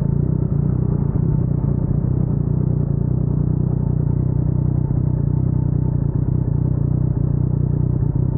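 Yamaha MT-09's crossplane three-cylinder engine running at steady revs through an Akrapovic carbon full-system exhaust: a deep, even rumble with no revving.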